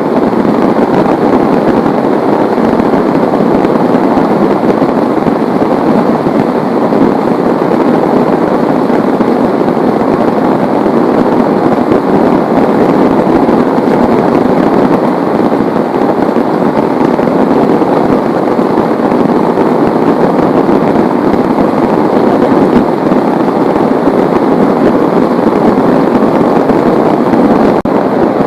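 Heavy rain pouring down, a loud steady dense patter.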